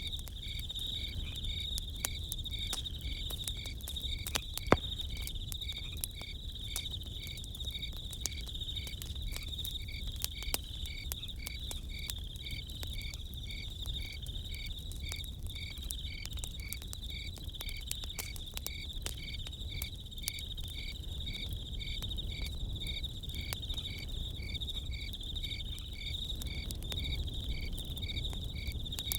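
Crickets chirping steadily in a regular pulsing rhythm over a crackling campfire, with scattered pops and one louder crack about five seconds in.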